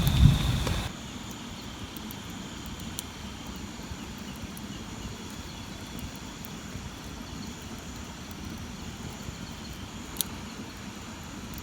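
A loud low rumble in the first second cuts off abruptly, leaving a steady low outdoor background rumble with a couple of faint sharp ticks.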